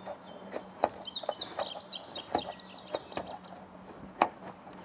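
A songbird singing a quick run of high, chirping notes for about two seconds, with scattered knocks and taps from work on the trailer's roof. The sharpest knock comes near the end.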